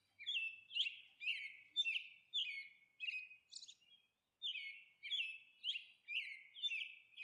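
A small bird chirping in a series of short chirps, about two a second, with a brief pause about halfway through.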